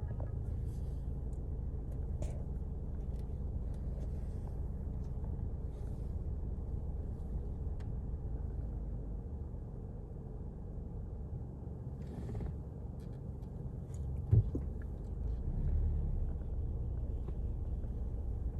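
Steady low rumble with faint scattered ticks, and one sharp knock about fourteen seconds in.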